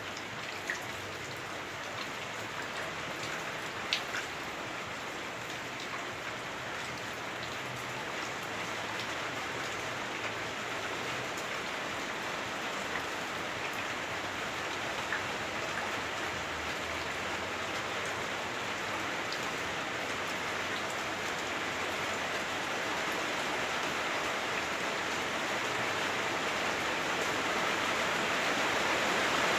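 Heavy rain on a house roof, heard from indoors: a steady rush with a few sharper drops standing out, slowly growing louder toward the end.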